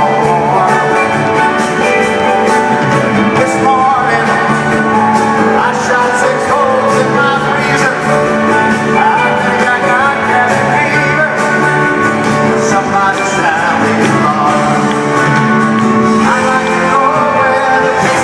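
Live band playing a rock song with singing.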